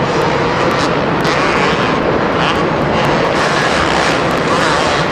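Two-stroke supercross motorcycles running in practice, the high engine note revving up and down as they go round the track.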